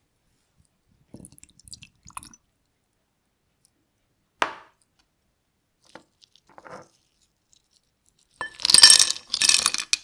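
Tableware being handled: a few light clicks and a sharper clink, then two louder, longer clattering noises near the end.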